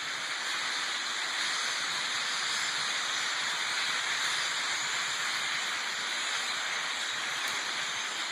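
A huge flock of birds calling all at once, so many voices overlapping that they blend into one steady, hissing din.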